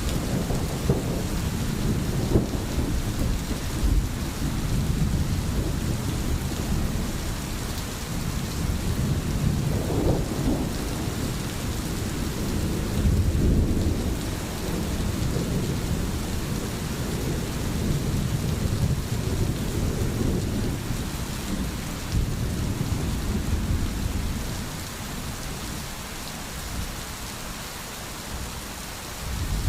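Steady rain with rolling thunder, a low uneven rumble under the rain's hiss that dies down near the end.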